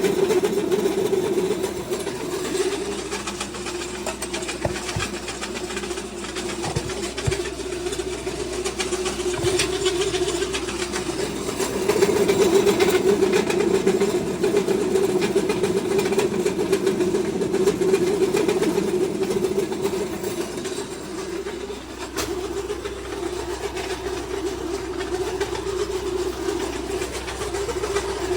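Pellet feed mill running steadily under load as it presses a corn and barley mix into pellets, a continuous mechanical drone that grows louder for a while about twelve seconds in and dips briefly near twenty-two seconds.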